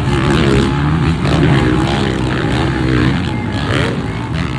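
Motocross dirt bike engines revving, their pitch rising and falling as the throttle is worked.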